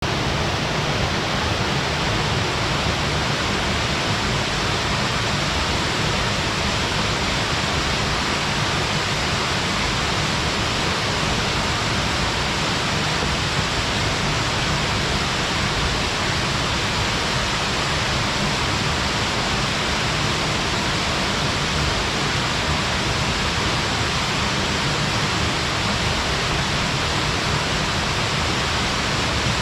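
Waterfall, a steady loud rush of falling water with no change in level.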